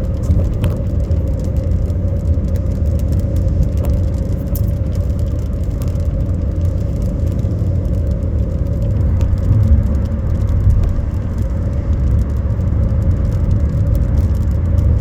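Steady car-interior driving noise: a low road and engine rumble with a faint steady hum, and scattered faint ticks over it.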